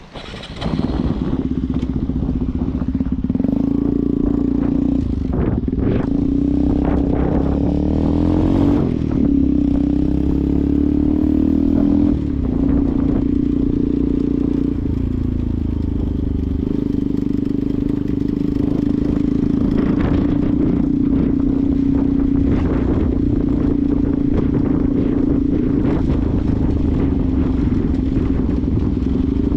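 Benelli TNT 125's single-cylinder 125 cc four-stroke engine running under way. The engine comes in loud about half a second in, and its note changes pitch in steps several times.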